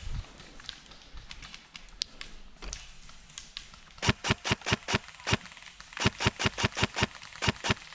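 Airsoft gunfire: a few scattered shots, then two quick strings of sharp cracks at about five or six a second, the first about four seconds in and the second about six seconds in.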